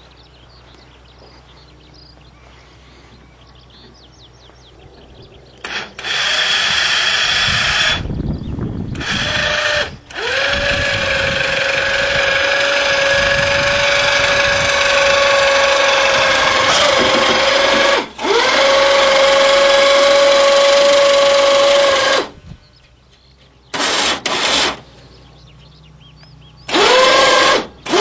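Small electric motor running in repeated spurts, each start spinning up to a steady whine: one long run of about twelve seconds and several short ones, with pauses between.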